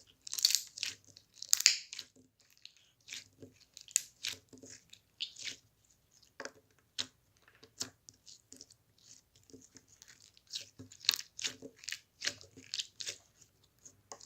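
Irregular crinkling and tearing sounds with sharp crackles, coming in clusters with short gaps between them.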